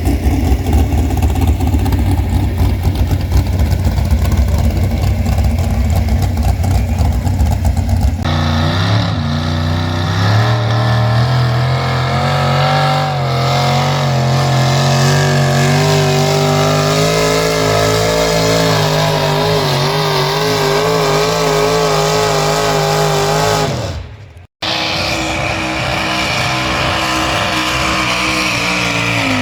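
Loud engines of competition pulling vehicles running hard: a rough, heavy engine noise first, then after an abrupt change about eight seconds in a pitched engine note that wavers and slowly climbs. The sound cuts out briefly near the end, then a steadier engine note follows.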